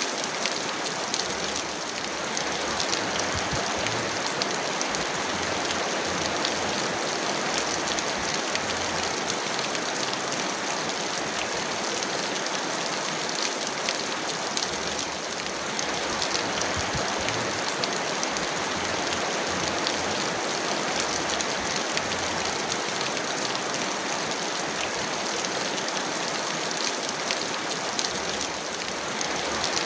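Heavy rain falling steadily: a dense, even hiss of rain with many small drop ticks on a hard surface.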